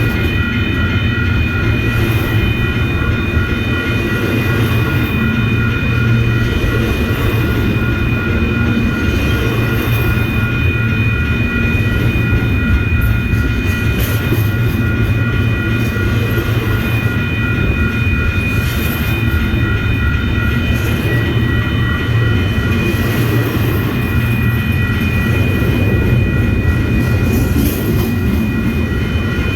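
Train running past at close range: a loud, steady low rumble with a steady whine above it and occasional faint clacks of wheels over rail joints.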